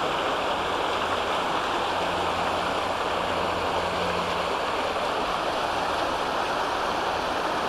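Floodwater from a channel of the Calapooia River rushing steadily across a flooded road.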